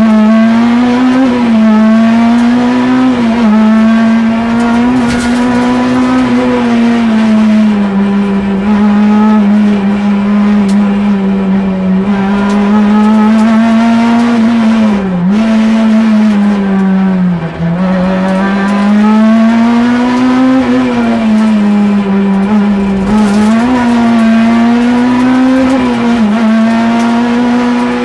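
Peugeot 106 Kit Car's four-cylinder engine running at high revs, heard from inside the cabin, its pitch wavering up and down with several brief dips.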